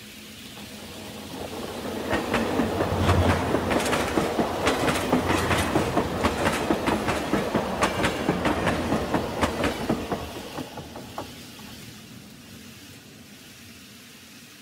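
A train passing, its wheels clicking over rail joints in a steady clickety-clack. It grows louder over the first two seconds and fades away after about ten.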